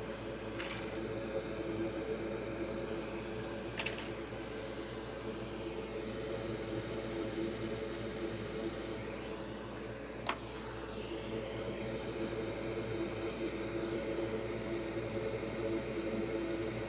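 Hot air rework station's blower running steadily with a whirring hiss, broken by three brief clicks, one near the start, one about four seconds in and one about ten seconds in.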